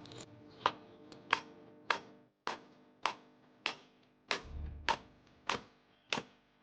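A series of sharp, evenly spaced metallic taps, about one every 0.6 seconds, each ringing briefly, with a dull low thud about halfway through.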